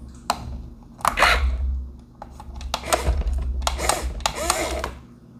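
Plastic remote-control toy excavator working its arm and bucket in loose soil: sharp clicks and several short scraping rattles, a second or so apart, over a low hum.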